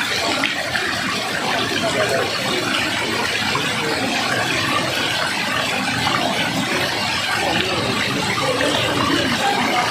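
Waterfall: water pouring and splashing steadily, a constant rushing sound without pauses.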